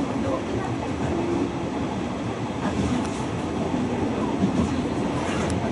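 Hanshin train running, heard from inside the passenger car: a steady rumble of wheels and motors.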